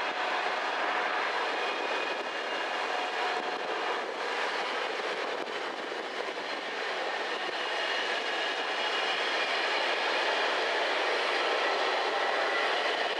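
Container wagons of a long intermodal freight train rolling past: a steady rush of wheels on rail, with a few faint high whines in it, growing slightly louder towards the end.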